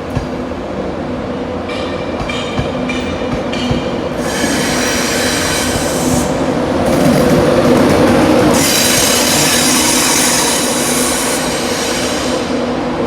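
Train moving through a station, with a steady low hum under it and high-pitched wheel squeal that comes in twice, the second time louder and longer.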